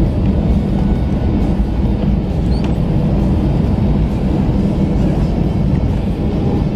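Airbus A319 cabin noise heard from a passenger seat around landing: a steady, loud low rumble of the engines and airframe.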